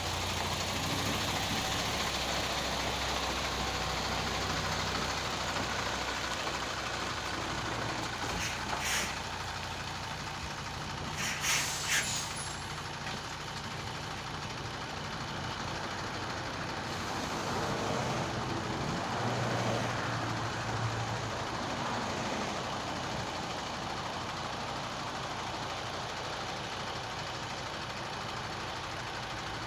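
A truck's engine idling steadily. Short bursts of hissing come about nine seconds in and again around eleven to twelve seconds.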